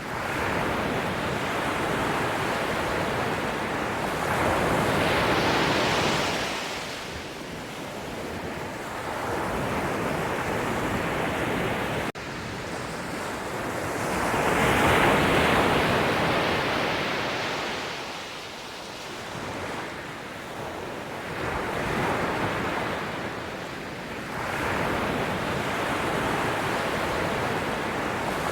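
Sea waves breaking and washing in; the surf swells to a crash and falls back every few seconds.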